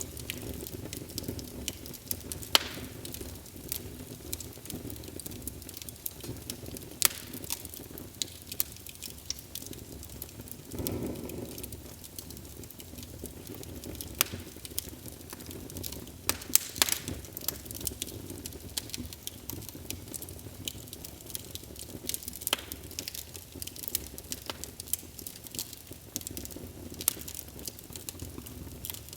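Wood fire burning in a fireplace, with a steady low roar and frequent sharp, irregular crackles and pops. A short louder whoosh of flame comes partway through.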